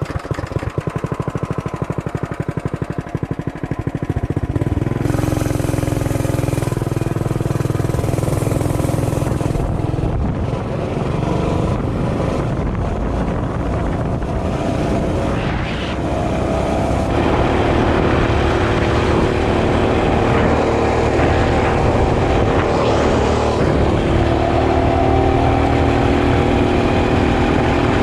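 Mini bike engine running under way. It putters evenly at first, picks up and gets louder about four seconds in as the bike pulls away, then holds a steady, higher pitch from about seventeen seconds on as it cruises faster.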